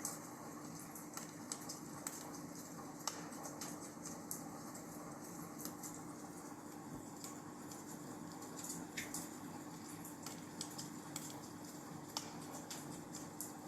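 Wood fire crackling in a fireplace: irregular small pops and snaps over a soft steady hiss, with a faint steady hum underneath.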